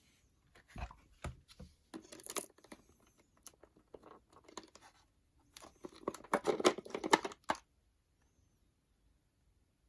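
Packaging being handled: irregular tearing and crinkling, densest about two-thirds of the way through, then stopping.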